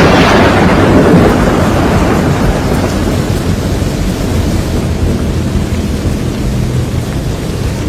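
Thunder rumbling and fading over the first two or three seconds, leaving a steady low rushing noise of a rainstorm.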